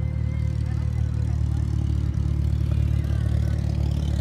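Car engine running with a steady low drone, heard from the car the filming is done from.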